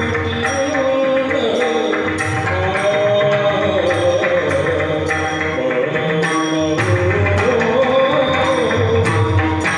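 Marathi devotional kirtan: a male voice sings a flowing, ornamented melody over held accompanying tones, with a steady beat of hand cymbals and drum.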